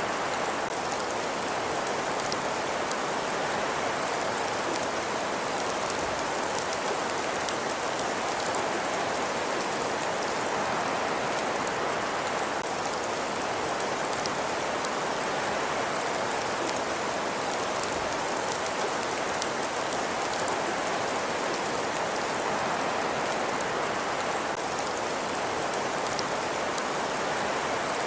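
Fireplace ambience: a steady hiss of fire with fine, scattered crackles throughout, even and unchanging.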